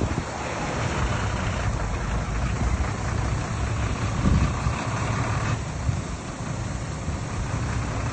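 Heavy earthmoving machinery running steadily: a diesel engine's rumble with mechanical noise, easing slightly about five and a half seconds in.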